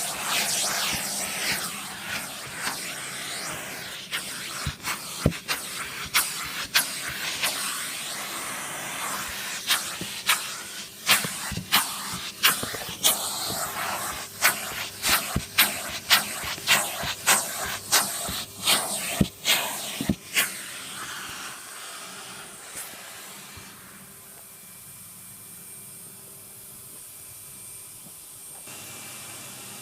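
Numatic Henry NVR cylinder vacuum cleaner running with a steady rushing hiss, broken by a rapid run of sharp clicks and rattles for about the first twenty seconds. After that the clicks stop and the hiss carries on more quietly.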